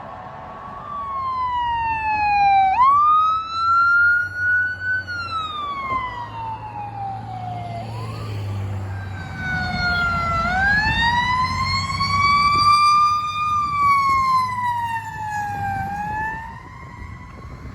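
Emergency vehicle siren on a slow wail: the pitch rises quickly, then falls gradually over several seconds, twice, with a pause in between. A heavy vehicle's engine rumbles underneath.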